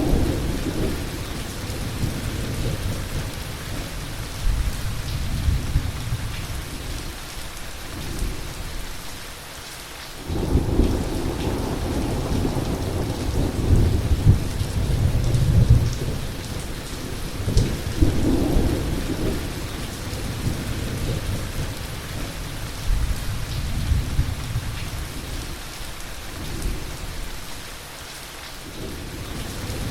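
Heavy rain falling steadily during a thunderstorm, with rolling thunder rumbling underneath. A loud roll of thunder breaks in suddenly about ten seconds in and rumbles on for several seconds, and a shorter one follows a few seconds later.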